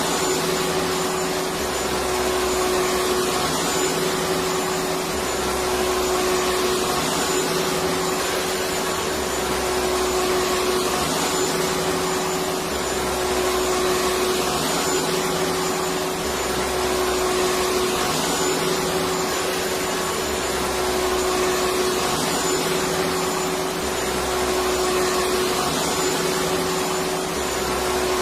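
Electric vacuum cleaner running steadily: an even rush of motor and airflow noise with a constant hum, played continuously as soothing white noise for babies.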